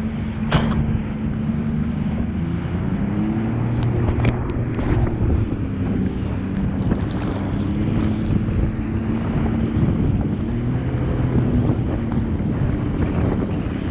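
Jet ski engine running at a steady, slightly wavering pitch, with wind buffeting the microphone and a few sharp knocks in the first five seconds.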